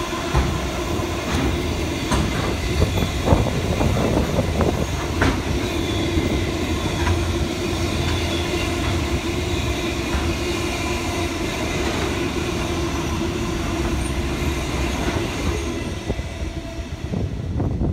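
A train running on the rails: a continuous rumble with a steady hum and a few sharp clacks in the first five seconds.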